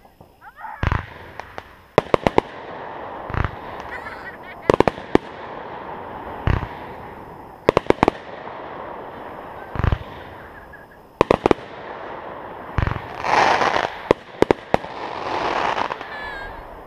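Aerial fireworks bursting overhead: single sharp bangs and quick strings of several reports every second or two, with a longer crackling near the end.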